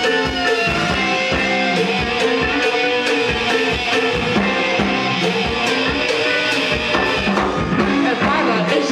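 Live rock band playing an instrumental passage: electric guitar and bass over a steady drum-kit beat, with sliding notes near the end.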